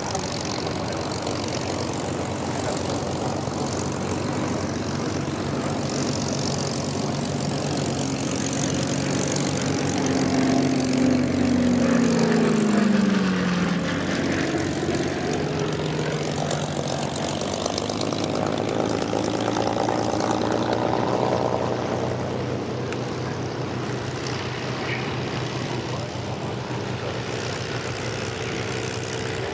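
Piston-engined propeller aircraft flying past overhead. The engine note swells to its loudest about twelve seconds in, then drops in pitch as the aircraft passes, and a second swell comes around twenty seconds in.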